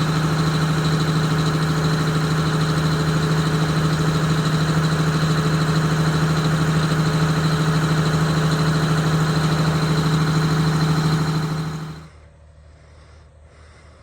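Wanderlodge RV bus engine idling with a steady low drone, which stops abruptly about twelve seconds in, leaving only faint background.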